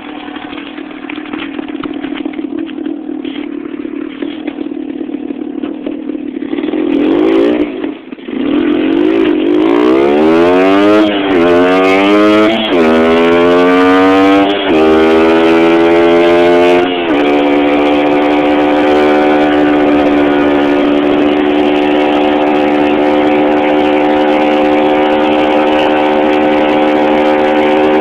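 1971 Suzuki TS250's two-stroke single-cylinder engine running steadily, then revving briefly about seven seconds in. It then pulls away, its pitch climbing and dropping back at each of four gear changes, before holding a steady cruising pitch for the last ten seconds.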